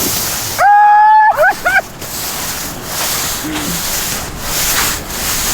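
A loud, steady high tone held for well under a second, then two short upward-sliding chirps, followed by rustling noise.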